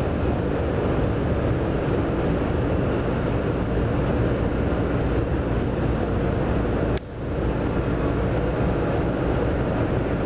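Steady running noise inside the cabin of a Hanshin 1000 series electric train: a low rumble with wheel-on-rail noise. About seven seconds in there is a click and a brief drop in the sound before it carries on.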